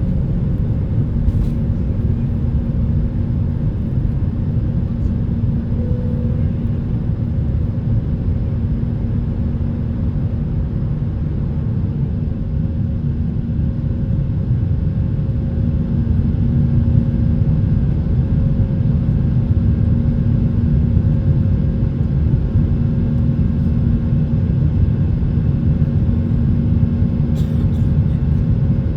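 Cabin noise inside a Boeing 737-800 from its CFM56-7B engines: a steady low rumble with a steady hum on top, growing slightly louder about halfway through.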